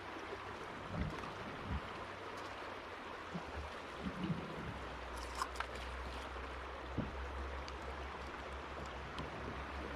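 River water running and rippling steadily, with a few soft knocks and a low steady rumble setting in about halfway through.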